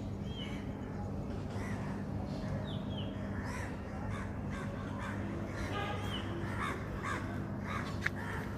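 Birds calling: short, harsh, repeated calls, coming faster in the second half, with a few thin chirps early on, over a steady low hum.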